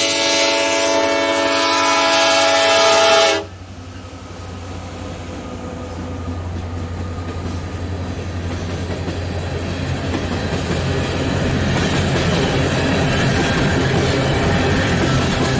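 Diesel locomotive's air horn sounding a held multi-note chord at a grade crossing, cutting off sharply about three seconds in. Then coal hopper cars roll past on the rails, the rumble building steadily louder.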